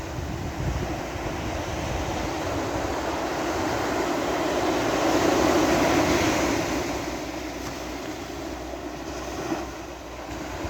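Sea waves on a beach: the surf swells to a peak about halfway through and then washes back, with wind buffeting the microphone.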